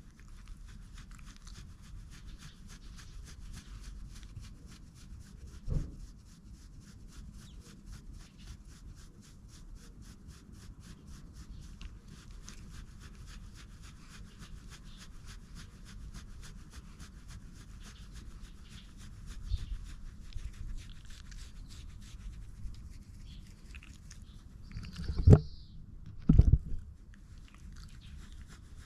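Fast, continuous rustling of hands rubbing a shedding Shiba Inu's thick coat and a tracksuit jersey, with a knock about six seconds in and two louder thumps near the end.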